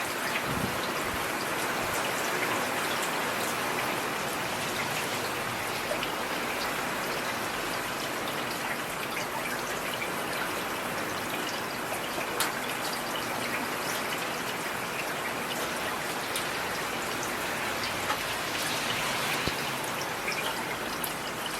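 Steady rain falling, with scattered louder drops ticking.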